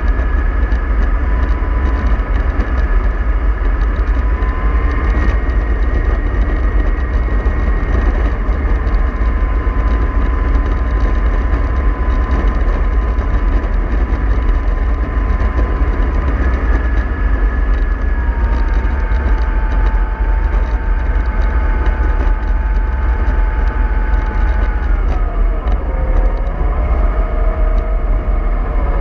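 MAN 24.310 bus running on the road, a heavy low rumble with drivetrain whine. The whining pitch steps up about five seconds in, drops around eighteen seconds, and falls away in a downward glide near the end.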